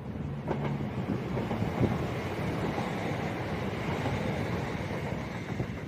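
A Class 170 Turbostar diesel multiple unit passing at speed: steady diesel engine and rail noise, with wheel clatter over the track.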